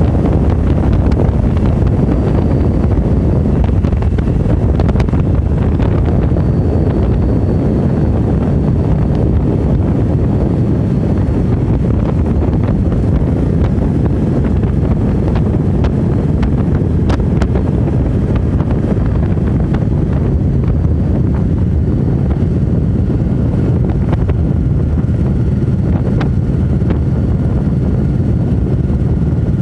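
Steady heavy wind rush on the microphone of a moving motorcycle, with the motorcycle running underneath it.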